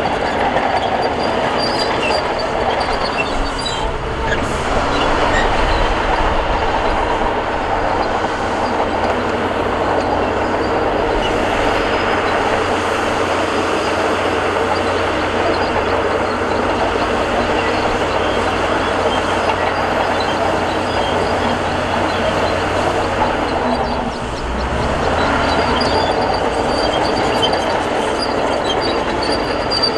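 Bulldozer at work: the diesel engine drones steadily under a dense metallic clatter and squeal of the steel crawler tracks. The sound eases briefly about three quarters of the way through, then picks up again.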